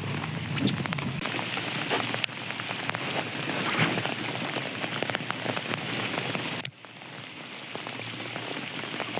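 Heavy rain falling, with many individual drops striking close by over a steady hiss. The level drops suddenly about seven seconds in, then the rain carries on more quietly.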